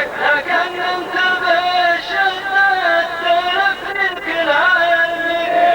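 A man's voice singing a mawwal in long held notes that waver slightly in pitch.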